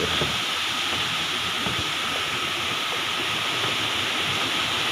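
Waterfall rushing steadily: an even hiss of falling water with no change.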